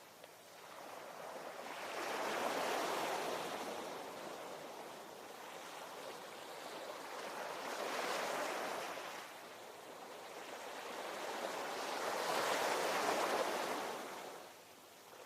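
Ocean waves washing onto shore: three waves in turn, each building to a rushing peak over a couple of seconds and then fading away.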